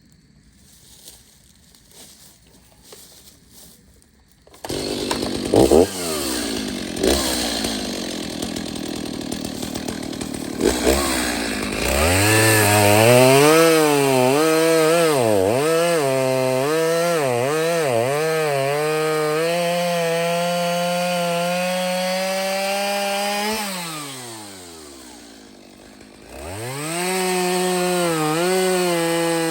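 Gas chainsaw cutting a downed tree into firewood rounds. It comes in suddenly about five seconds in, then its engine pitch repeatedly dips and recovers as the chain bogs in the wood. Near the end it winds down to a low idle for a couple of seconds, then revs back up to cut again.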